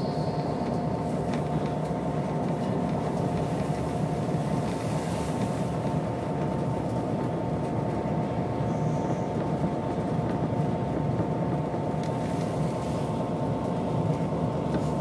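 Class 67 diesel locomotive 67026 running at speed, heard from inside its cab: a steady rumble of the train on the rails with a constant whine over it.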